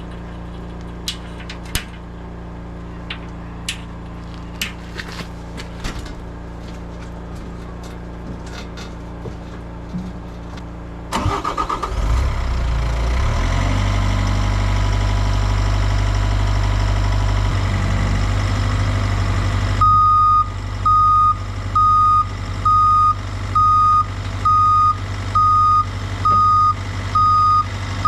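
A low hum with scattered sharp clicks, then, about a third of the way in, a skid steer's engine comes in suddenly loud and keeps running. Near the end its backup alarm starts beeping a bit more than once a second as it reverses.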